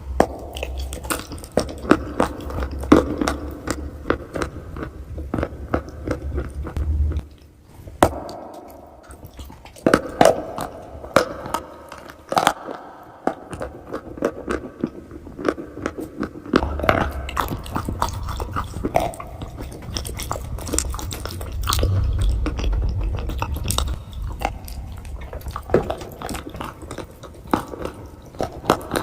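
Close-miked biting and chewing of crunchy chalk: many sharp crunches in quick, irregular succession, with brief lulls about 7 and 12 seconds in.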